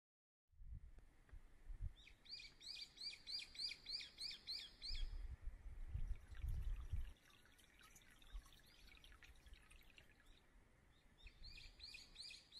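A bird repeating a quick series of short high chirps, about three a second, for a few seconds and then again near the end, over faint outdoor ambience. Low rumbles come in just after the start and again about halfway through.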